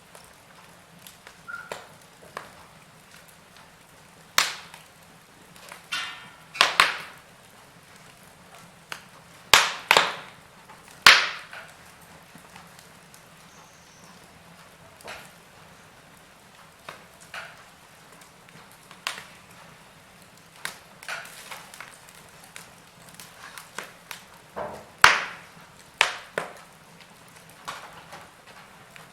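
Log fire crackling: irregular sharp pops and snaps from burning wood, a few much louder than the rest, over a faint steady hiss.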